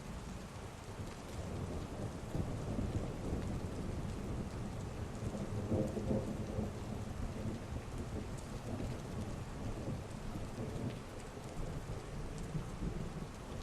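Heavy rain falling steadily while thunder rumbles low, swelling from about two seconds in to its loudest around six seconds, then easing off.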